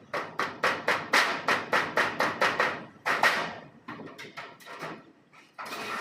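Rapid hammer blows on metal, about five a second, thinning out and fading after about three seconds. A steadier rasping, scraping noise begins near the end.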